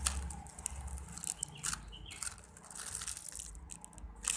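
A banana-shaped foam squishy toy being squeezed and handled, giving soft crackling and crunching with scattered small clicks.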